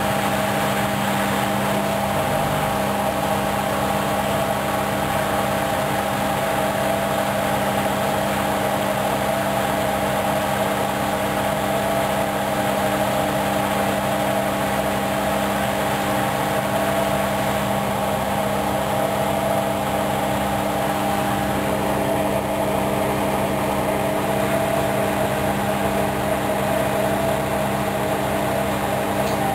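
Hoover DYN 10124DP front-loading washing machine in its final spin at 700 rpm, the drum and motor running at a steady speed with an even hum made of several steady tones.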